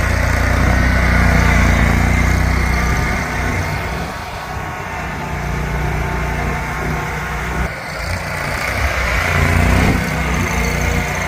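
Engine running continuously at a fairly loud level, louder for the first few seconds, easing off, then swelling again near the end as the load changes.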